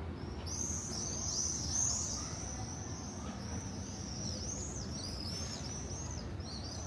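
Many small birds chirping together in quick, overlapping high-pitched chirps, like a roosting flock chattering at dusk. Low city hum sits underneath.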